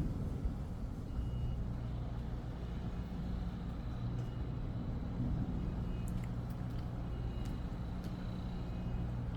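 A steady low hum from a running motor, with a few faint ticks in the second half.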